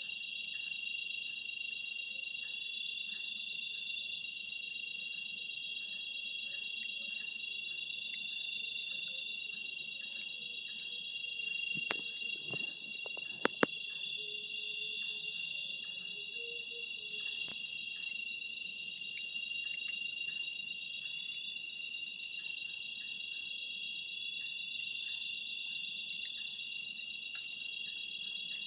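Dense chorus of night insects trilling steadily at several high pitches at once. A few sharp clicks come about halfway through.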